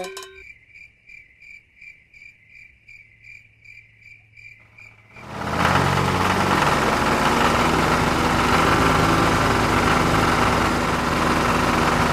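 A steady chirping, about three short high chirps a second, like crickets. About five seconds in, a vehicle engine starts running loudly and steadily.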